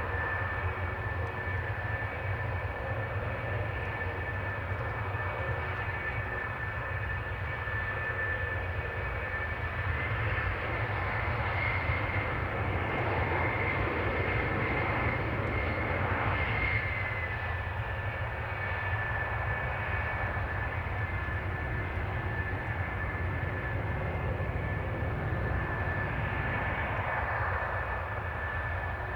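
Jet aircraft engines running steadily with a constant high whine over a broad rush of noise, swelling a little about halfway through.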